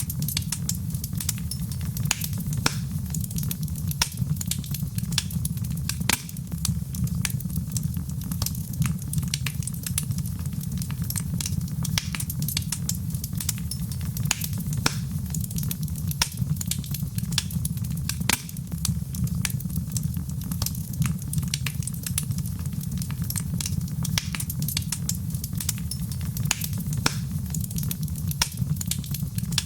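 Fireplace fire crackling, with frequent sharp, irregular pops and snaps over a steady low rumble.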